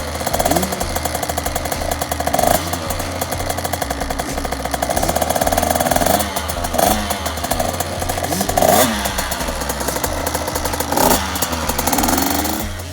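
Husqvarna TC50's 50cc two-stroke single-cylinder engine being ridden hard, its pitch climbing and dropping back again and again with several sharp rev peaks.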